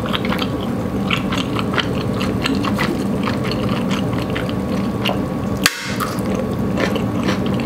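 Close-miked chewing of chewy udon noodles: a quick run of wet mouth clicks and smacks over a steady low hum, with one sharper click a little after halfway.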